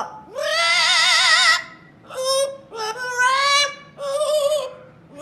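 A parrot singing in a wavering, operatic voice: one long note with strong vibrato, then three shorter notes.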